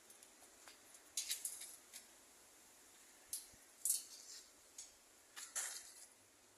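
Parrots making a few short, sharp, high-pitched scratchy sounds, the loudest about four seconds in.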